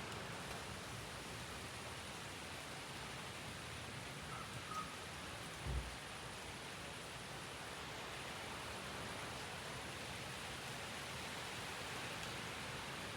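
Steady hiss of rain with wind, even and unbroken. A single brief low thump sounds a little before the middle.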